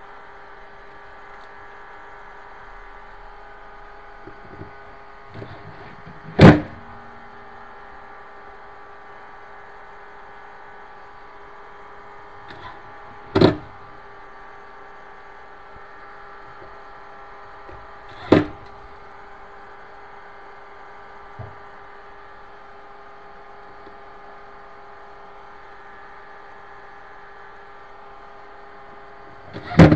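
Three sharp knocks several seconds apart, then a fainter one, over a steady hum.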